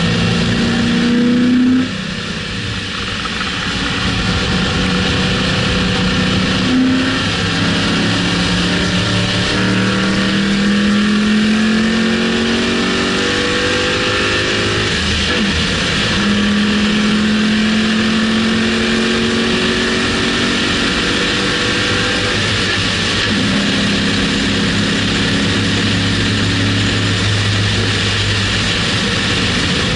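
2006 Mustang GT's 4.6-litre V8 pulling hard at full throttle, its pitch climbing in long gear pulls and dropping back at each upshift. Heavy wind and tyre noise sit over it at the bumper-mounted camera.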